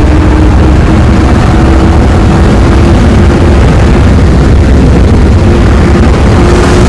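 Car driving at speed: a steady engine drone under a loud, continuous low rumble of wind buffeting the microphone.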